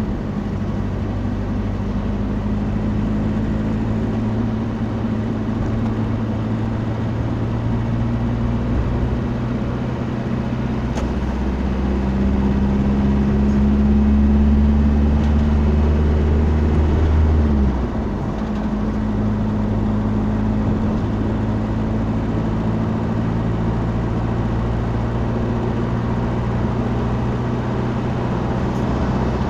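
Motor vehicle driving, heard from inside the cab: a steady engine hum under continuous road noise. The engine note drops about 18 seconds in, as at a gear change or easing off, then settles again.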